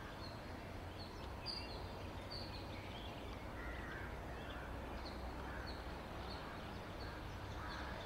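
Birds calling: a short high chirp that repeats every half second or so, with a few lower calls in between, over a low steady rumble.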